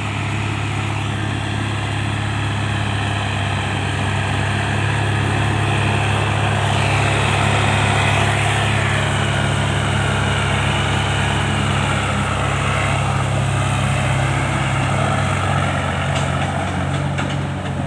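Diesel tractor engine running steadily under heavy load while pulling a stuck loaded trolley, a bit louder through the middle.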